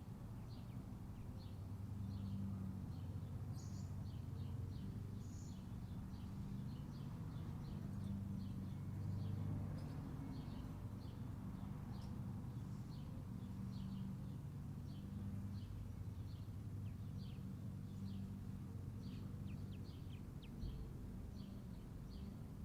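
A bird calling with short high chirps repeated about twice a second, over a steady low rumble.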